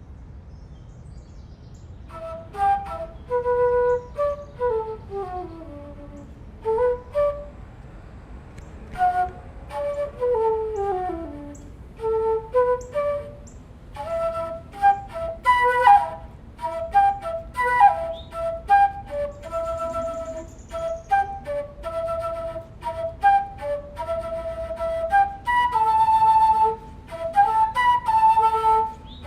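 Solo flute, handmade from recycled PVC pipe, playing a melody that starts about two seconds in. It begins with descending runs of notes, then from about halfway turns into a faster stretch of quick notes and held tones.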